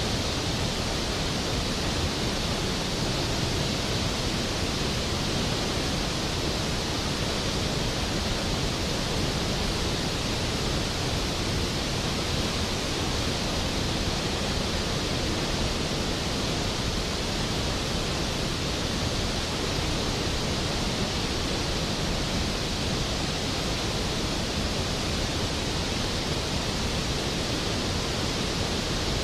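Skógafoss waterfall: a large volume of water falling and crashing into the plunge pool, a steady, dense rushing noise with no change.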